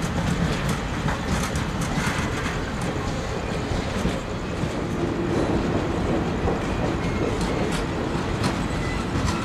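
Ringling Bros. and Barnum & Bailey circus train's passenger cars rolling past close by: a steady rumble of steel wheels on the rails, with scattered clicks from the rail joints.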